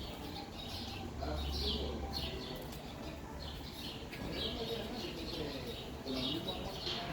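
Small birds chirping over and over in short high calls, over a low steady hum.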